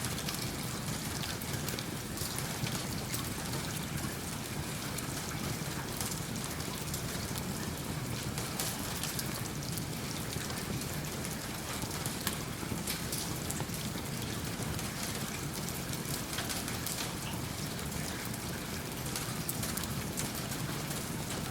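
Steady rain falling, an even wash of sound with many small, sharp ticks scattered through it.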